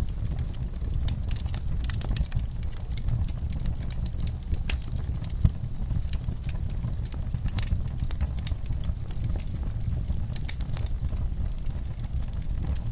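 Wood fire in a fireplace crackling, with frequent irregular sharp pops over a low steady rumble of burning. One pop about five seconds in is louder than the rest.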